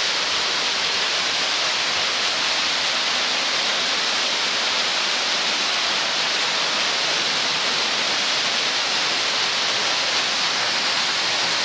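A waterfall pouring, a steady, unbroken rush of falling water.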